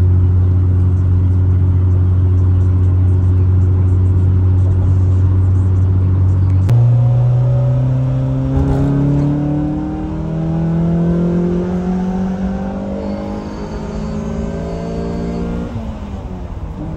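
Honda Prelude engine heard from inside the cabin: it runs at a steady cruise, then about seven seconds in there is a click and a jump in engine pitch at a gear change. The engine note then rises steadily under acceleration for about nine seconds and drops off near the end as the driver lifts or shifts. The car is on a test drive after timing-belt work.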